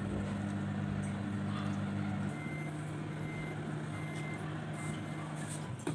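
Microwave oven running with a steady hum; a little over two seconds in, part of the hum stops and the oven gives four short high beeps as the heating cycle ends, while a lower hum carries on until near the end.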